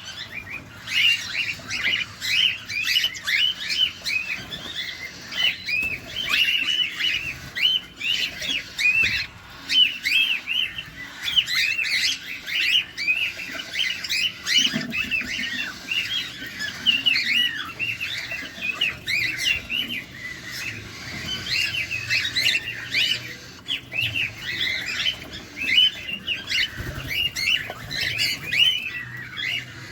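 Cockatiels chirping without pause: short, arching chirps, several a second.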